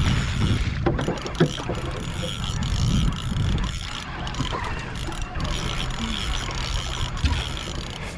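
Steady wind and water noise around a small boat at sea, with a few sharp clicks from a fishing reel and rod gear a second or so in.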